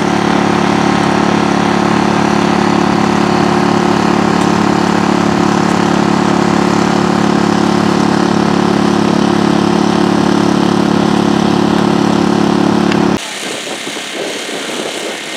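Engine of a gold-prospecting machine running steadily at a constant speed, loud and close. It cuts off abruptly about 13 seconds in, leaving fainter outdoor sound.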